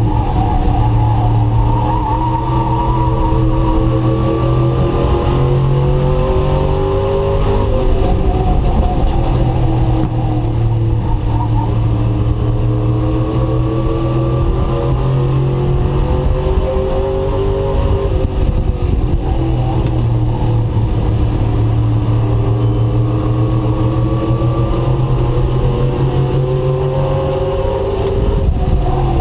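Race truck engine heard from on board under racing load. The pitch climbs along the straights and drops off into each turn, a rise-and-fall that repeats about every ten seconds around the oval.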